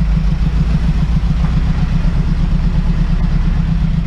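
Vehicle engine running with a loud, steady low rumble that flutters rapidly, likely the scrap truck.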